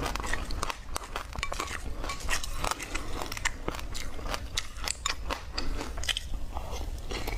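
Close-miked chewing of passion fruit pulp, the seeds crunching in many quick, sharp cracks.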